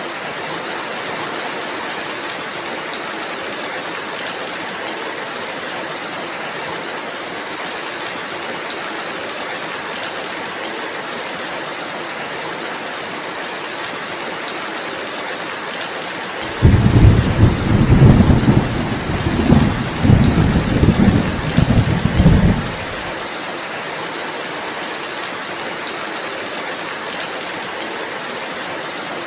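Steady rainfall, an even hiss throughout. About halfway through, a loud, deep rumble of thunder starts suddenly, rolls in several swells for about six seconds and dies away.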